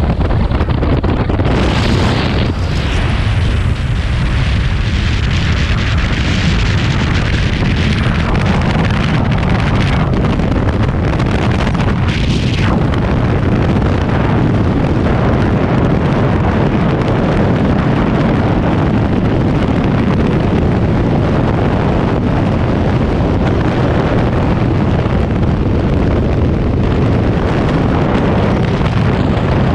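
Wind buffeting the microphone: a loud, steady rumble and hiss.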